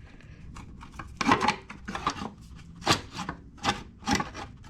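A piece of 20-gauge sheet metal scraping and rubbing in several short strokes as it is worked into place by hand.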